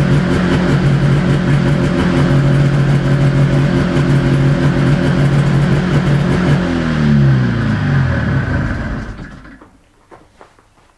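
1974 Arctic Cat Panther 340 snowmobile's two-stroke engine running steadily after a cold start, then shut off about seven seconds in, its pitch falling as it winds down to a stop. A few faint knocks follow.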